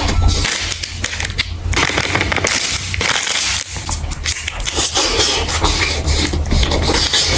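Crunchy food being chewed: dense, irregular crunching and crackling throughout.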